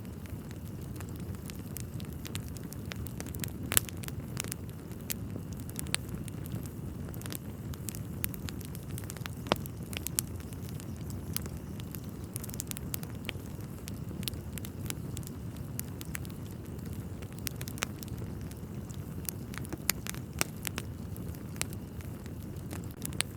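Wood fire burning in a fireplace: a steady low rumble of flames with frequent sharp crackles and occasional louder pops from the burning logs.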